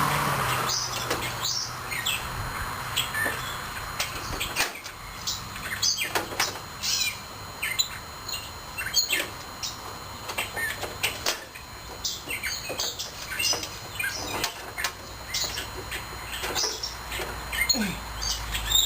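Birds chirping off and on, with scattered light clicks and clinks of metal parts being handled while a mower's steering linkage is lined up.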